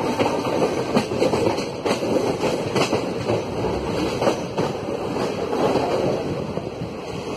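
Indian Railways passenger train running, heard from an open coach doorway: a steady rumble of steel wheels on the rails, broken by irregular clicks and clatter as the wheels pass over rail joints and points.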